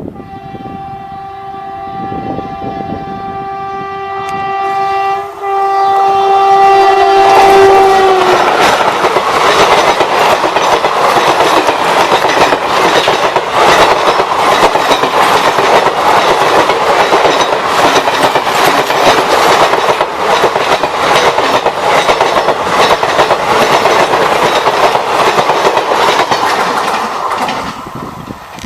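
An Indian Railways electric locomotive sounds one long, steady horn blast for about eight seconds as it approaches, then the express train passes close by at speed, wheels clattering over the rail joints for the next twenty seconds.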